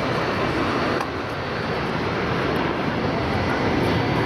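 Airliner engines running, a loud steady rushing noise. There is a slight drop in level about a second in.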